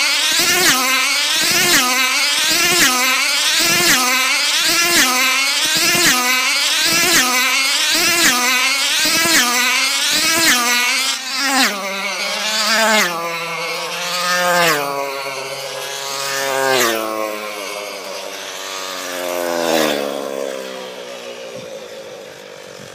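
Class 10A tether car's two-stroke model engine running at high speed round the tether circle, its pitch swelling and falling with each pass about once a second. About halfway through the car slows down: the passes come further apart, the engine pitch drops, and the sound fades away.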